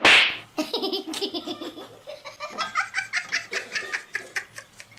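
A sudden loud noise right at the start, then a person laughing hard in quick, repeated bursts.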